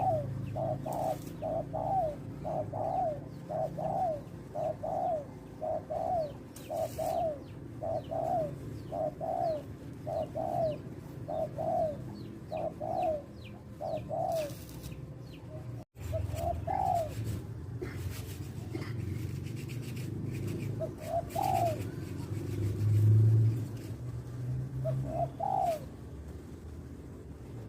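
Spotted dove cooing: a run of short coos about one a second, then after a cut three single coos a few seconds apart. A low steady rumble runs underneath and swells for about a second two-thirds of the way through.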